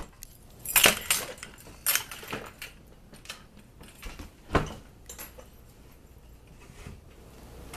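Scattered knocks, clinks and rustling from someone moving about and handling small hard objects, with one heavier thump about four and a half seconds in.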